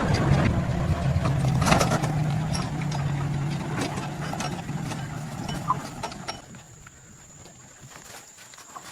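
A motor running steadily with a low hum, dying away about six seconds in, with scattered clicks and knocks over it.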